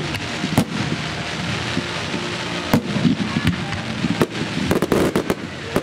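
Fireworks display: sharp bangs go off about once a second over a steady crackling hiss, and a rapid run of bangs comes near the end.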